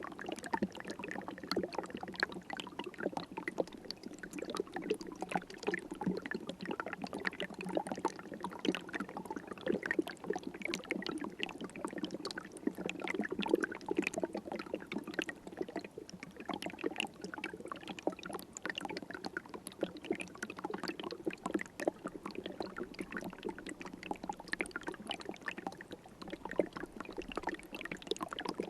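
River water flowing steadily, a continuous rush of many small splashes and gurgles.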